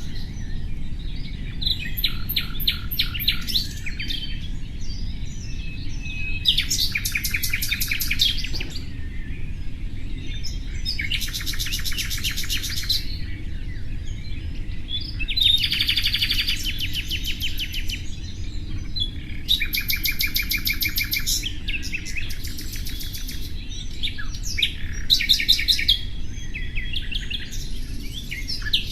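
Common nightingale singing: about eight short phrases of fast repeated, trilled notes, each a second or two long and separated by pauses, over a steady low background noise.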